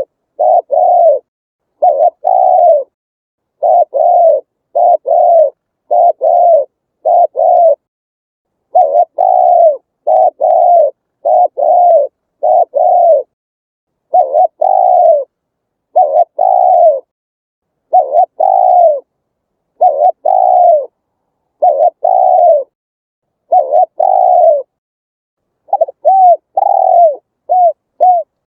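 Spotted dove cooing over and over: low, hollow coos, each dropping a little in pitch, coming in quick runs of two or three with short pauses between. Near the end the coos turn shorter and quicker.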